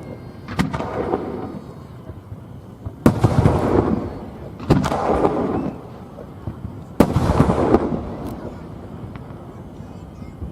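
Aerial fireworks shells bursting overhead: four loud sharp bangs a second or two apart and a smaller one near the end, each followed by a rumbling tail that dies away over about a second.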